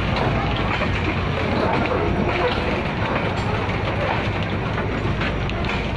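Freight wagons rolling past close by: a steady rumble of steel wheels on the rails, with a few clicks as the wheels cross the rail joints.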